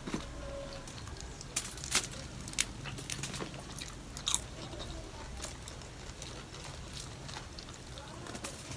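A person chewing and biting food, with scattered sharp crunches; the loudest come about two seconds in and again a little past four seconds.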